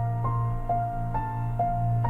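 Background music: a gentle keyboard melody, a new note about every half second, over a held low note.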